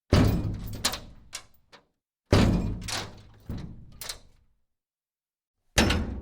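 A series of heavy thunk-like impacts: three big hits, one at the start, one about two seconds in and one near the end, with smaller knocks after the first two, each dying away quickly.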